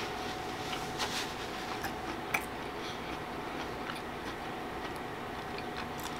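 Close-miked chewing with the mouth closed: scattered soft, wet clicks, a few per second or less, over a steady background hum.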